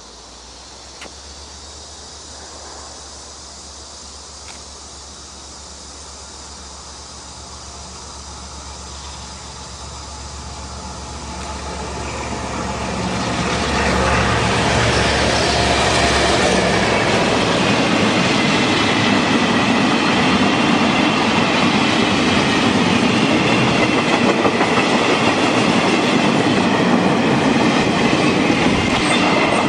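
Diesel-electric freight locomotive and train approaching: a low engine drone grows louder, then about 14 seconds in the train passes close by, with the wheels clattering on the rails and a high squeal over the rest of the passing.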